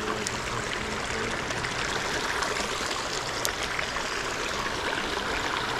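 Small creek's water running steadily with a trickling rush.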